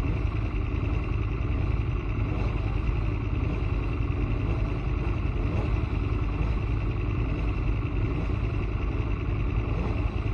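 Aprilia Tuono motorcycle engine running at a steady, even pitch with no big revs or gear changes, under a heavy low rumble.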